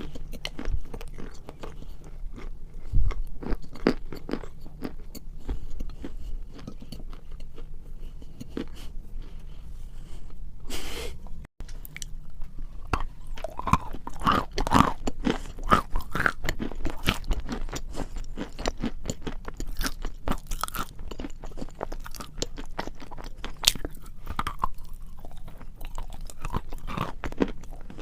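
Close-miked biting and chewing of a hard, brittle food, a dense run of sharp crunches. The sound drops out for a moment about halfway through, and the crunches are louder after it.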